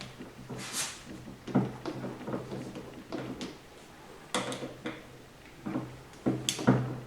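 Irregular clinks, knocks and short scrapes of metal transmission parts and tools being handled and set down, several separate bumps with the loudest near the end, over a steady low hum.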